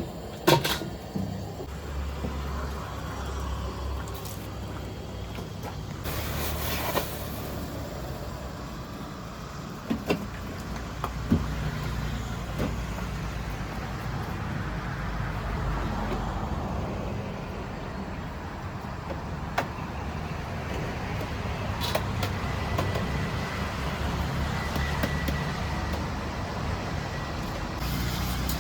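Steady road-traffic rumble from a busy street, with a few sharp knocks, about half a second in and again around a third and two thirds of the way through.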